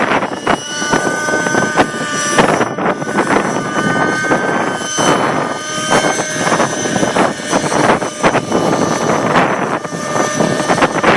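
Trex 600 nitro RC helicopter's glow engine and rotors running with a steady whine that shifts slightly in pitch, mixed with heavy wind noise gusting on the microphone.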